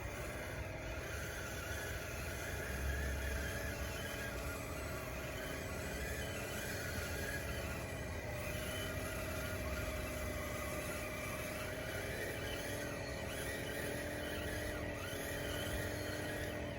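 DXR2 radio-controlled bulldozer running, its motors giving a steady whine whose pitch wavers up and down as it works, with faint higher squeaks.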